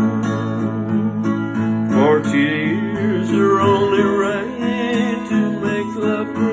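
Country waltz music: an acoustic guitar strums the accompaniment, with a wavering melody line above it.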